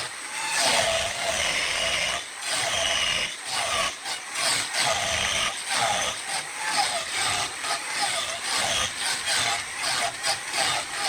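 A tool cutting into wood: a rough scraping that comes and goes in short bouts, over a steady high whine.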